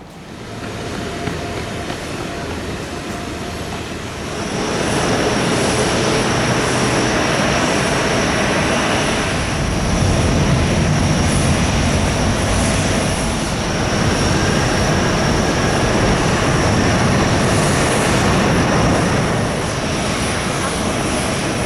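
Jet airliner engines running loud, the noise swelling about four seconds in and then holding, with a steady high-pitched whine over it.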